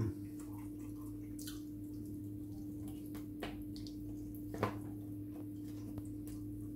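Mouth sounds of someone eating fried chicken hot wings: chewing with a few scattered wet clicks and smacks, over a steady low hum. Right at the start a short falling "mm" from the eater is the loudest sound.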